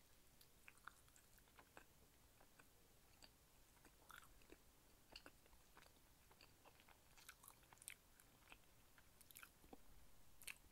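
Faint, soft chewing with scattered small wet mouth clicks: a person eating a mooncake with a soft, mochi-like outer layer.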